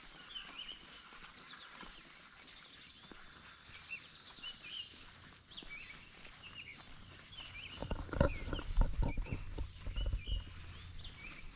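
Insects buzzing with a steady high drone that breaks off twice and fades about halfway, with birds chirping throughout. Near the end comes a run of heavy thumps from footsteps close to the microphone.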